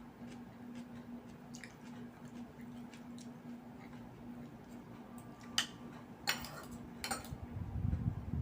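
A person chewing food quietly, with small wet mouth sounds and faint ticks. A few sharp clicks come about five to seven seconds in. A steady low hum runs underneath.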